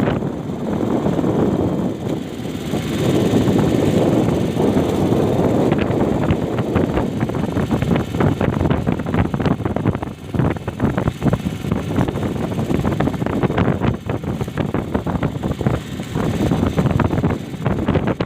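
Strong wind buffeting the microphone together with big waves hitting a small fishing boat at sea: a loud, continuous rumbling rush broken by many short sharp gusts and splashes.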